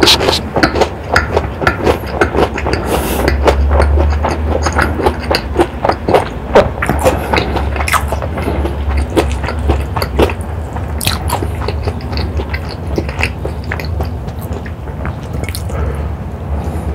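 Close-miked chewing of a mouthful of fried cheese pork cutlet, a dense run of wet smacking and clicking mouth sounds.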